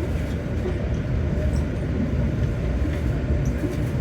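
Steady low rumble of a passenger train coach, heard from inside, with a few faint clicks.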